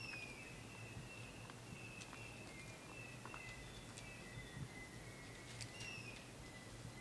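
Faint wild bush ambience of birds calling: short, repeated high whistled notes, some slurring downward, with a few faint clicks and a low steady hum underneath.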